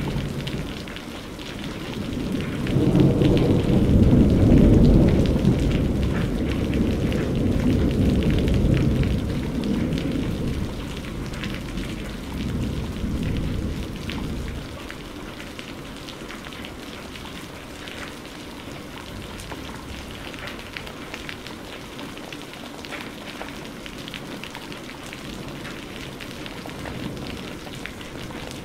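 Steady rain with drops pattering throughout, and a long rumble of thunder that swells about two seconds in, is loudest soon after, and dies away about halfway through, leaving only the rain.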